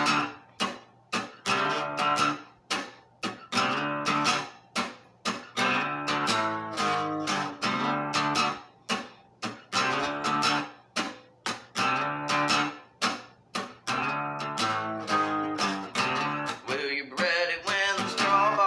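Guitar instrumental break: chords strummed in a steady stop-start rhythm, about two strokes a second, each chord cut short before the next.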